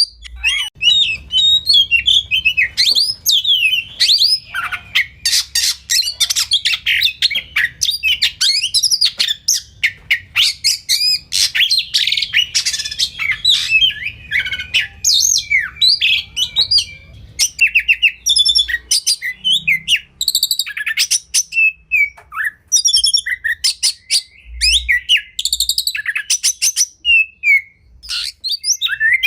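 Oriental magpie-robin singing a long, varied song of whistled glides, fast chattering trills and sharp repeated notes, more broken by short pauses in the second half.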